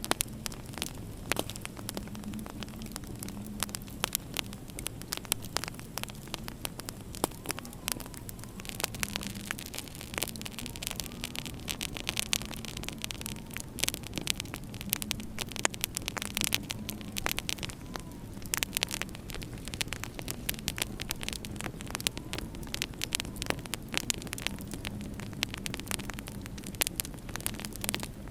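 Wood fire in a fireplace crackling, with frequent sharp pops over a steady low hum.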